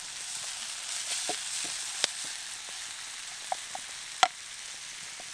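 Peppers and onions sizzling as they fry, a steady hiss with scattered small pops and crackles and one sharper pop about four seconds in.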